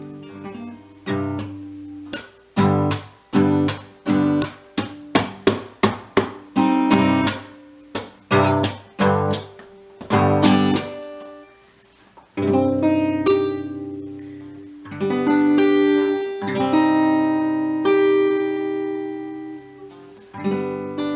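Acoustic guitar being strummed: a run of quick, sharp strums through the first half, then, after a short pause, slower chords left to ring for a few seconds each.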